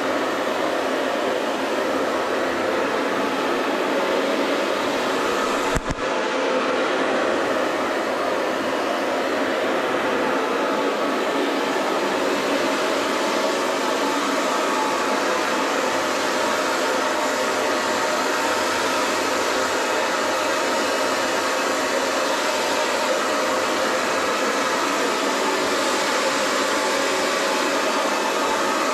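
Hair dryer blowing steadily, an even rushing noise, with a short click and a momentary dip about six seconds in.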